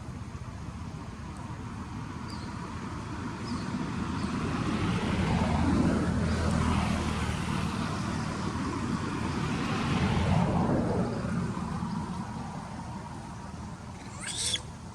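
A motor vehicle passing by, its noise swelling and fading, then a second pass about four seconds later. A short high-pitched call near the end.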